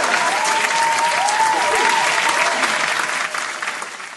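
Audience applause: a dense, steady clatter of many hands clapping, dying away near the end.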